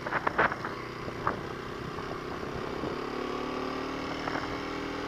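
2021 Kawasaki KLX250's single-cylinder four-stroke engine running at a steady, even note, with a few short clicks in the first half second.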